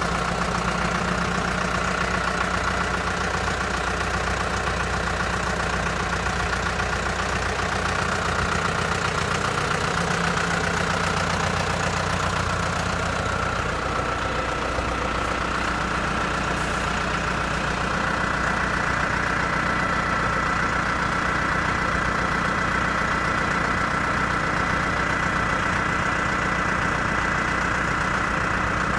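AGCO Allis 6690 tractor's air-cooled Deutz four-cylinder diesel running steadily at idle, with a thin high whine held above the engine note.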